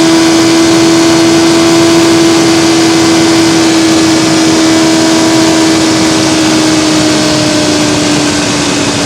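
2024 BMW S1000XR's inline-four engine running hard at high revs at speed, its steady pitch easing slightly lower toward the end as the revs drop off, over a constant rush of wind noise.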